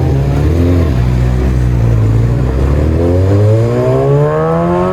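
A vehicle engine accelerating away: it runs steadily for a couple of seconds, then the revs climb smoothly and continuously through the second half as it pulls hard.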